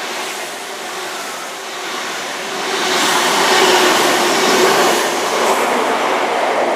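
A Great Western Railway HST (InterCity 125) with Class 43 diesel power cars passing through at speed in heavy rain, its engines running and its wheels on the rails, splashing through the wet. The noise builds about three seconds in as the train comes closer, with a steady engine tone over the rush of wheels and spray.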